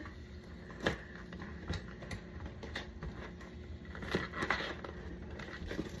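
Faint, scattered clicks and light rustling from a bag of freshly popped microwave popcorn being handled and opened.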